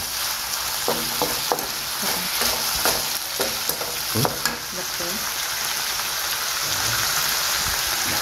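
Pork skin strips and herbs sizzling hard in an aluminium wok, scraped and tossed with a wooden spatula for about the first five seconds, then left to sizzle steadily.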